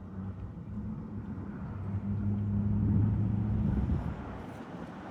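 A car's engine hum and tyre noise, growing louder about two seconds in and fading again a second or two later, as a car passes slowly by.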